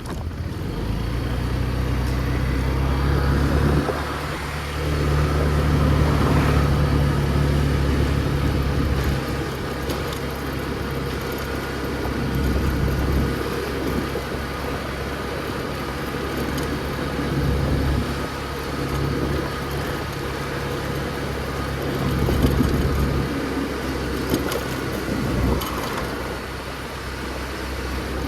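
Motor scooter engine running during a ride, its note rising and falling several times as the throttle changes, with road and traffic noise around it.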